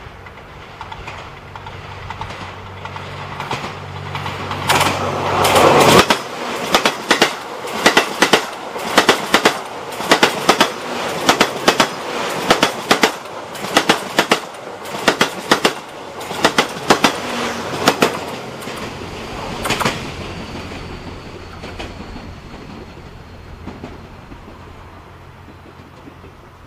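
Train passing close by: it builds up with a steady low hum, is loudest about six seconds in, then its wheels knock over the rail joints in evenly repeated pairs, clickety-clack, before fading away.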